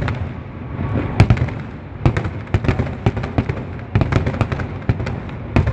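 Aerial firework shells bursting in quick succession: a rapid run of sharp bangs over a low rumble, loudest about a second in and again about four seconds in.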